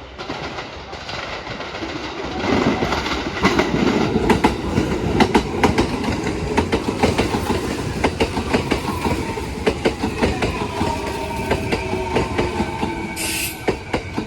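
Kintetsu electric train moving through the station, its wheels clacking over rail joints and points, with a whine that falls in pitch. A short burst of air hiss comes near the end.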